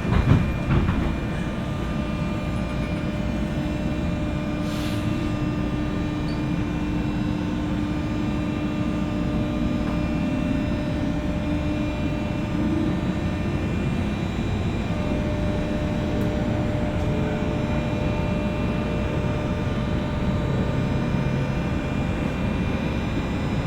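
Interior running sound of a JR West 201 series electric train, heard above motor car MoHa 201-193's armature chopper: a steady rumble of wheels on rail with several steady tones from the chopper and traction motors. A brief louder knock comes about half a second in.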